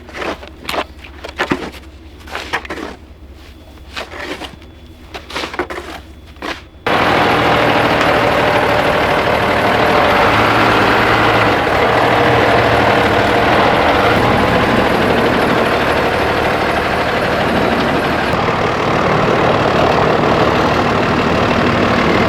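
A vehicle engine rumbles low and steady under scattered knocks and clicks. About seven seconds in, a much louder, steady engine and machinery noise cuts in suddenly and runs on.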